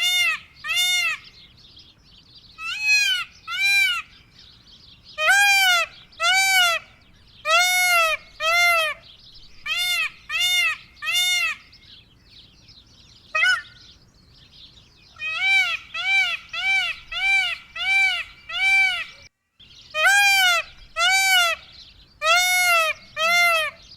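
Indian peafowl (peacock) calling: a long series of short, loud, arched honking calls, about two a second, in runs of two to eight with brief pauses between runs.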